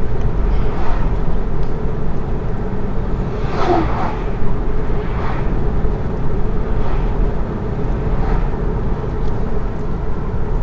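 Steady road and tyre noise heard inside the cabin of a moving 2019 Chevy Bolt electric car, with no engine sound.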